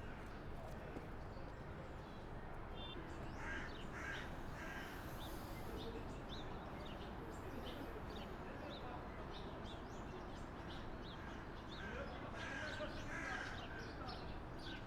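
Bird calls over steady outdoor background noise: harsh caws, a few about three and a half seconds in and again near the end, with many short high chirps between them.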